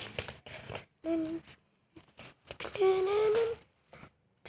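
A person's voice humming two short notes, the second longer and rising slightly, with light rustling and clicks between them.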